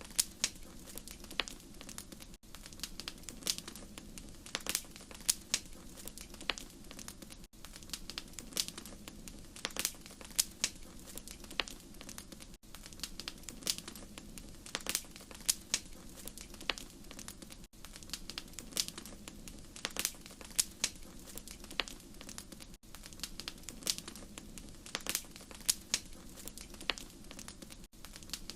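Wood fire in a fireplace crackling, with irregular sharp pops and snaps over a steady low rumble of burning, and a brief dip in level about every five seconds.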